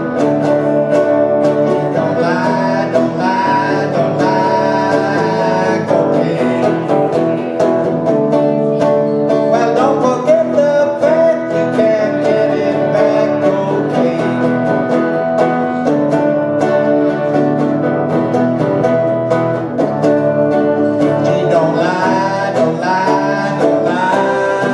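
Acoustic music: plucked string instruments playing a song, with a voice singing a line in several stretches.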